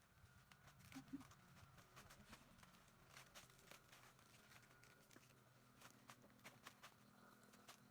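Near silence, with faint irregular clicks and taps scattered through it and a faint steady high thin tone.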